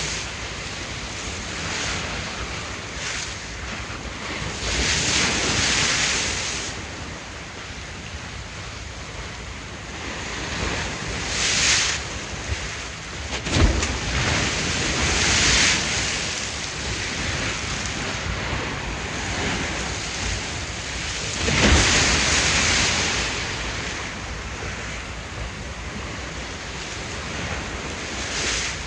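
Ocean waves surging and breaking in irregular swells every few seconds, with wind. Two sharp, heavier slaps of water come about halfway through and again a few seconds later.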